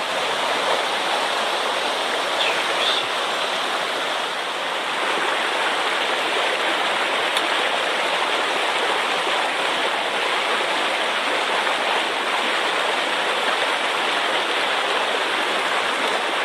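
Mountain stream rushing steadily, swollen with floodwater after a typhoon.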